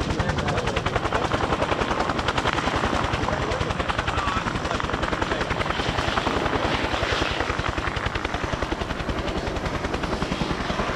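Vietnam-era Bell helicopter in flight: the two-bladed main rotor beats in a rapid, steady rhythm over the running whine of its Lycoming T53 turboshaft.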